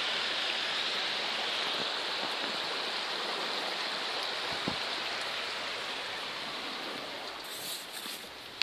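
Heavy rain pouring down in a steady hiss. Near the end it fades a little, with a few brief rustles.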